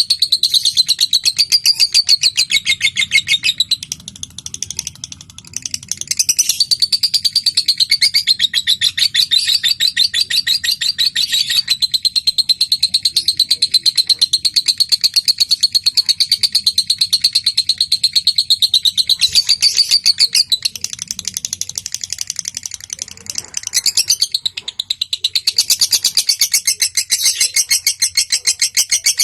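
Lovebird singing in long runs of very rapid, high-pitched chattering trills (the 'ngekek' song), broken by two brief pauses.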